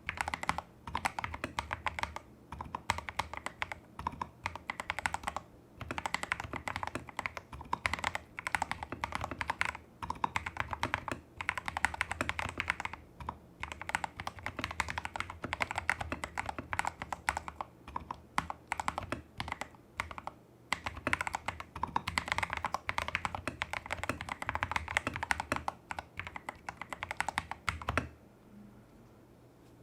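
Fast typing on a Tester68 custom mechanical keyboard with lubed Holy Panda clone tactile switches, taped PCB and XDA keycaps: dense runs of keystrokes broken by short pauses. The typing stops about two seconds before the end.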